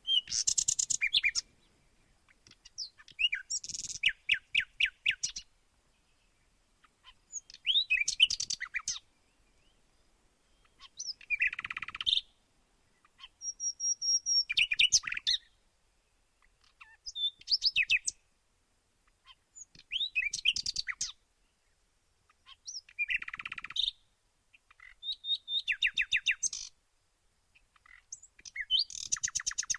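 Songbird singing, about ten short phrases of quick high trills and whistled notes, each lasting a second or so, with brief silent pauses between them.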